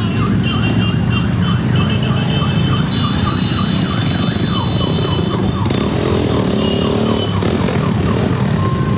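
Electronic sirens or alarms sounding quick, repeated falling chirps, several a second, with two series overlapping. Steady high alarm tones come and go over them. A constant low rumble of vehicle engines runs underneath.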